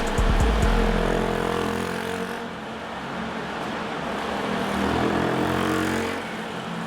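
Small-displacement motorcycle engine running on a track, revving up and easing off, its pitch rising and falling. It fades a little a couple of seconds in and swells again later.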